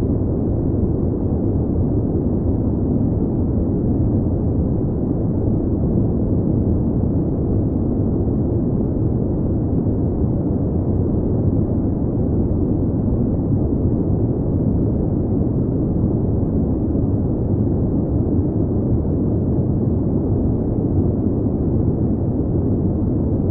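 Airplane cabin noise in flight: a steady, deep, even rumbling hum with nothing higher over it and no changes.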